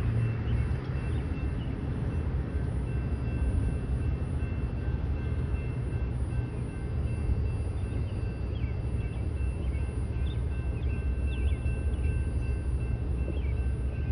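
Steady low rumble of an approaching train's diesel locomotives, with faint short high chirps in the second half.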